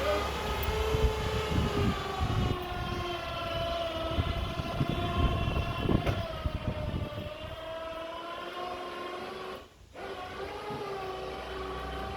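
A steady mechanical whine made of several pitched tones that sag and rise slowly together, with low thumps and knocks through the first half.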